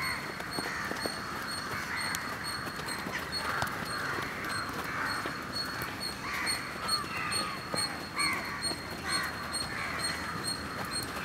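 Many birds calling over one another in a steady chorus of short, overlapping calls.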